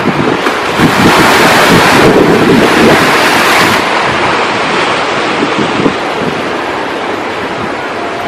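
Ocean surf: a wave breaks and washes up about a second in, holding for a few seconds before easing off. Wind buffets the microphone throughout, giving a choppy low rumble.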